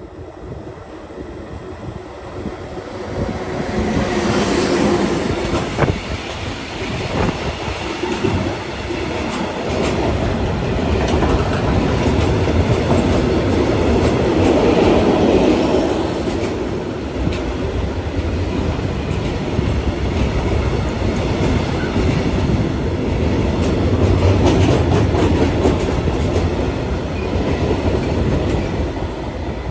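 A train passing on the rails, its wheel and running noise growing loud about three to four seconds in and staying loud.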